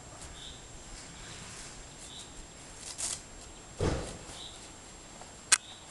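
Quiet outdoor background with a small bird's short faint chirp repeating every second or two. A few sharp clicks and, just before the four-second mark, a short dull thump stand out, louder than the chirps.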